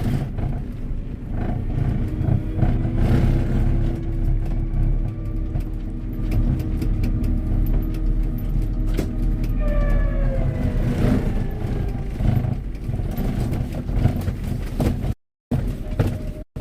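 Tractor running on the move, a steady heavy low rumble with a faint steady whine over it, and a short falling whine about ten seconds in. The sound cuts out briefly near the end.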